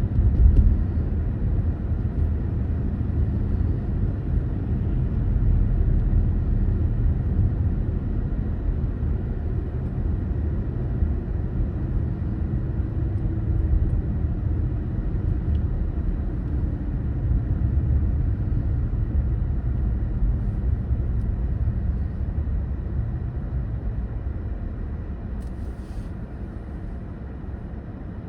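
Car driving: a steady low rumble of road and engine noise that eases off over the last several seconds.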